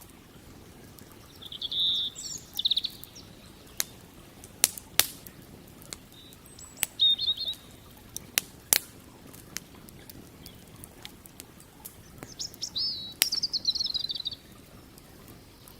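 Wood campfire crackling with sharp, scattered pops over a soft steady low rush, while a small songbird calls three times in short high chirps and trills.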